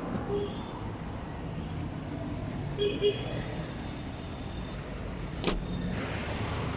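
Steady low rumble of motor-vehicle traffic, with two short high chirps close together about three seconds in and a single sharp click a little past five seconds.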